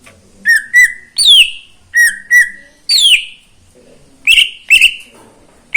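Green leafbird (cucak ijo) singing loud whistled phrases: two short notes followed by a long note that slides downward, repeated three times, then two shorter, higher notes near the end.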